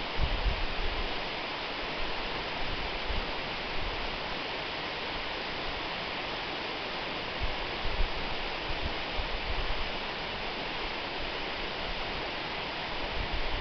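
Waterfall: water falling and splashing in a steady, even rush. Occasional short low thuds rise through it, the strongest about eight seconds in.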